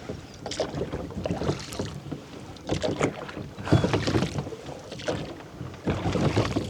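Small rowboat being rowed: oars dipping and splashing in uneven strokes, with wind on the microphone.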